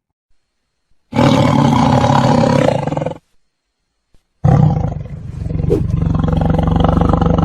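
A large animal giving two long, loud calls: the first lasts about two seconds, and the second starts about halfway through and is still going at the end.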